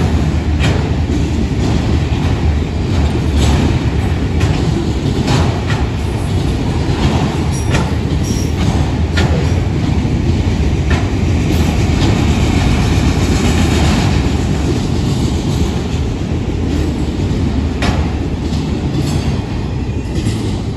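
Empty autorack freight cars rolling past close by: a steady low rumble of steel wheels on rail, broken by irregular sharp clicks from the wheels and rail joints, easing slightly as the last car passes near the end.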